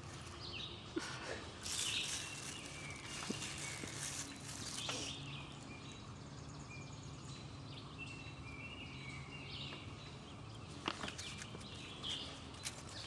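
Faint outdoor ambience with a few short bird chirps, broken by scattered small knocks and rustles, the loudest a little cluster of clicks near the end.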